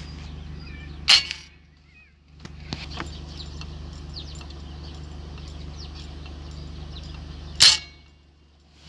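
Two air rifle shots, one about a second in and one near the end, each a sharp crack followed by a brief hush. Small birds chirp throughout over a steady low hum.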